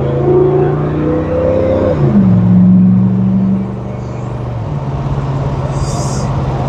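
1976 Pontiac Grand Prix V8 engine pulling the car along the road. Its note drops sharply about two seconds in, as at a transmission upshift, holds, then settles to a lower steady note near the five-second mark. The engine runs smoothly with no ticking, the exhaust leak repaired.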